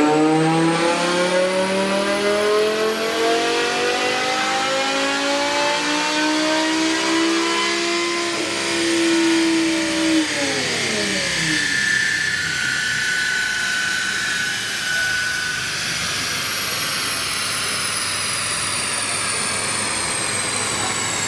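BMW E60 M5's V10 engine at full throttle on a chassis dyno, revs climbing steadily for about ten seconds in one gear, then dropping quickly as the throttle is closed. The car then coasts down on the rollers with a high whine slowly falling in pitch.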